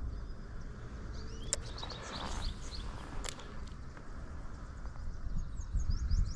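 Birds chirping repeatedly in short high notes over a steady low rumble, with two sharp clicks and a brief swish in the middle.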